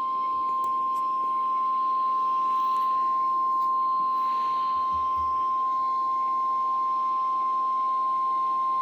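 Weather radio warning alarm tone (the 1050 Hz Weatheradio Canada alert tone): one steady, unbroken high beep held at an even level. It signals that a weather warning broadcast is about to follow.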